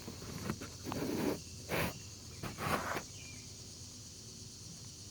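Insects, likely crickets, trilling steadily in the background, with a few short rustling noises in the first three seconds.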